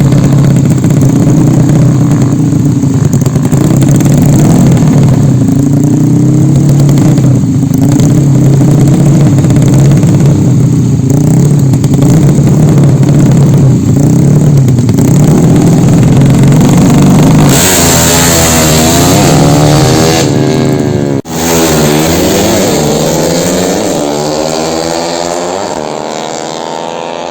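Tuned Yamaha Jupiter underbone motorcycle engines running loud and steady. About two-thirds of the way through they switch to quick revs up and down, with one sudden brief break, then fade somewhat toward the end.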